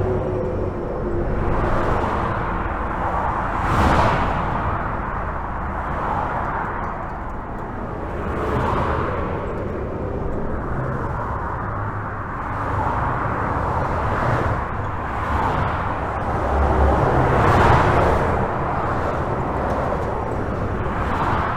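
Steady highway traffic heard from under a bridge: continuous tyre and engine noise with a low rumble, swelling each time a vehicle passes close, the loudest passes about four seconds in and near the end.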